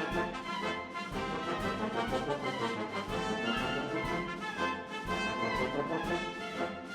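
Orchestral music with brass playing, a full band sound with no pauses.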